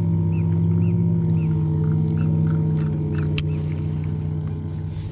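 Boat outboard motor running steadily with a low hum; its pitch drops slightly about a second and a half in, and it fades a little toward the end. A single sharp click comes a little past the middle.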